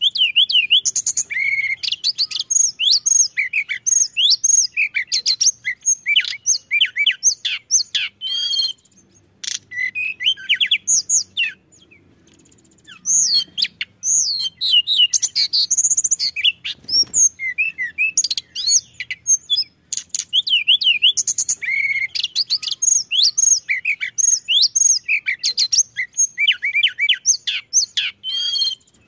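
Tledekan gunung singing a fast, busy song of high whistled notes, chirps and quick up-and-down sweeps, with short pauses about nine and twelve seconds in.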